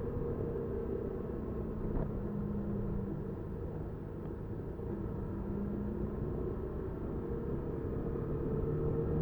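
Honda Super Cub 50's small single-cylinder engine running under way, with wind and road rumble on the bike-mounted recorder; its pitch drifts up and down as engine speed changes, and there is a brief tick about two seconds in.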